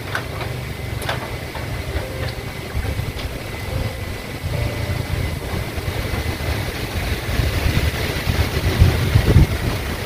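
Strong wind gusting against the microphone in an uneven low rumble that builds toward the end, over a steady hiss. A few light knocks come in the first three seconds.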